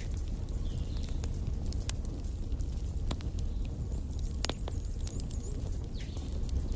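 Wood fire burning in a fireplace: a steady low rumble of flames with irregular sharp crackles and pops from the burning logs, one louder pop about halfway through. A few faint short high squeaks come and go.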